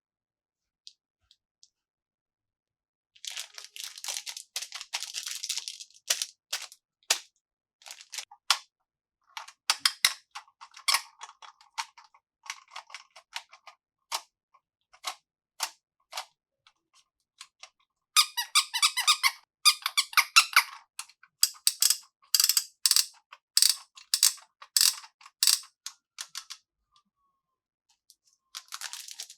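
Plastic packaging handled and opened close to the microphone: crinkles and sharp clicks coming in three clusters, with short pauses between them.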